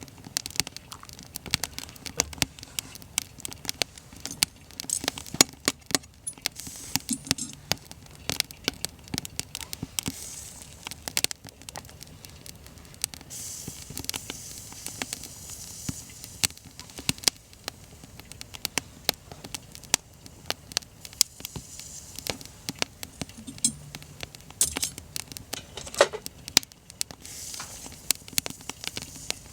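Wood fire crackling and popping, with irregular sharp snaps over a faint hiss.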